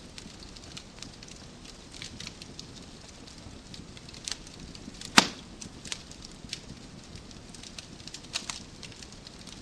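Wood fire in a fireplace crackling: scattered sharp pops and clicks over a low steady rush of flame, with one loud snap about five seconds in.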